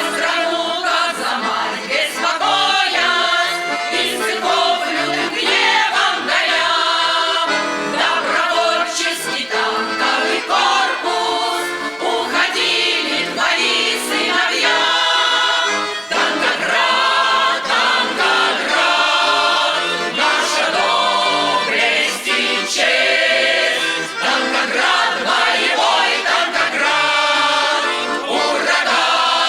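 A choir singing a song with accordion accompaniment.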